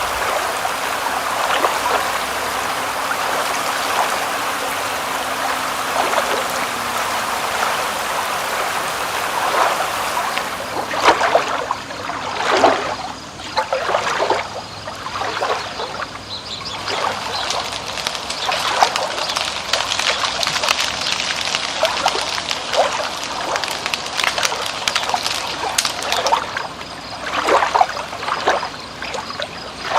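Running water trickling and splashing, with gurgles. It is a steady, even hiss for roughly the first eleven seconds, then turns into more uneven, separate splashes.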